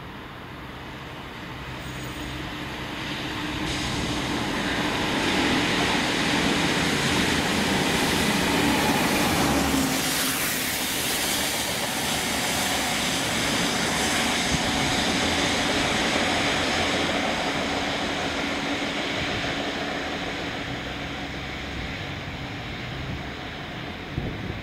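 Diesel multiple unit train passing. Its noise builds over several seconds and peaks about ten seconds in, where the steady engine hum drops slightly in pitch, then fades away.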